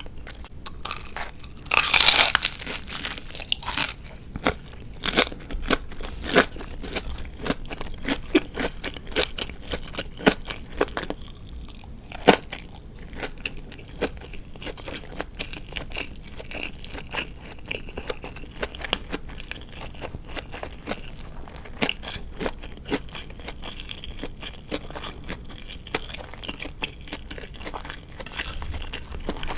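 Close-miked chewing of crispy deep-fried marinated chicken. A loud crunchy bite comes about two seconds in, followed by a steady run of crisp crunching chews.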